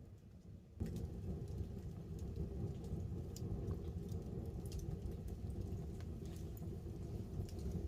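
Wood fire crackling with scattered sharp pops over a steady low rumble, with light rain pattering on the tarp overhead. The sound steps up abruptly just under a second in.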